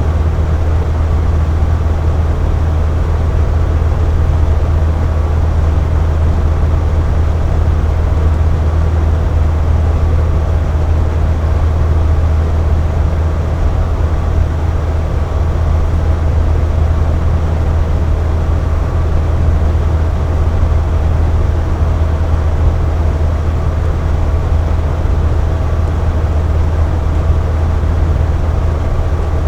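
Air conditioner running steadily: a constant low hum with a whooshing airflow and a faint steady whine above it.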